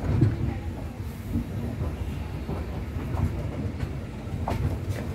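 Passenger express train rolling along a platform, heard from an open coach doorway: a steady low wheel-and-rail rumble, with a few sharp clicks near the end.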